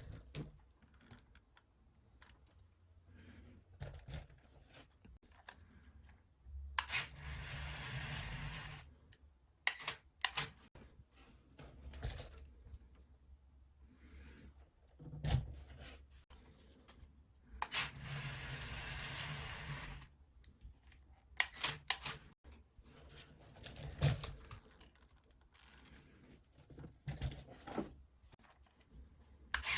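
Electric drive motors of a CaDA Ferrari 488 brick model car whirring in three runs of about two seconds each, with scattered plastic clicks and knocks between runs from the motorised gear-shift and steering mechanism.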